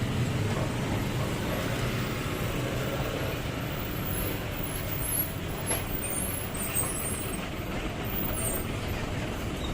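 Heavy 12-wheel truck's diesel engine running steadily, with a few faint clicks in the middle.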